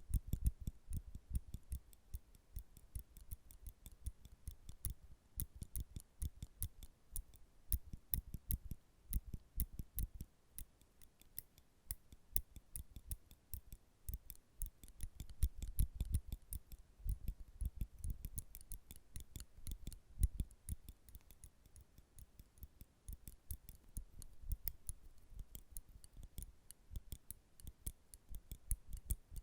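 Metal nail clippers clicking and snapping over and over, many sharp, irregular clicks a second, with soft low thuds mixed in.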